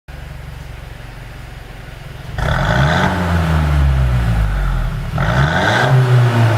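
A 2016 Mercedes-Benz E200's four-cylinder engine, fitted with a pop-sound tune, idles steadily and is then blipped twice. Each rev climbs quickly and then falls back toward idle, the second coming a few seconds after the first.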